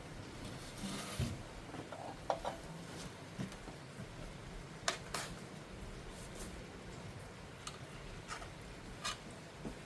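Scattered light clicks and taps, a dozen or so short sharp ones at uneven intervals, over a faint steady hiss.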